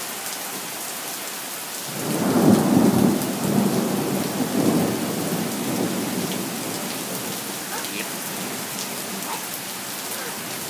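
Steady rain, with a roll of thunder breaking about two seconds in and rumbling away over the following several seconds.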